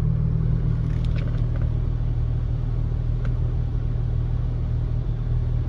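1997 Jeep Wrangler TJ engine idling steadily with a low rumble, with a few faint ticks about a second in and again near the middle.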